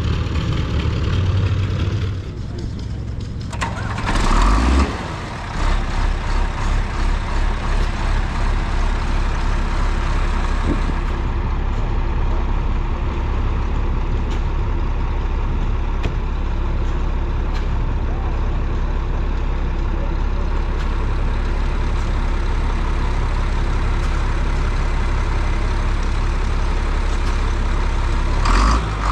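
An engine running steadily, with a loud burst about four seconds in followed by a few seconds of rhythmic throbbing before it settles.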